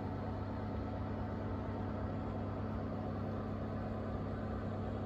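A kitchen appliance's electric motor running with a steady low hum.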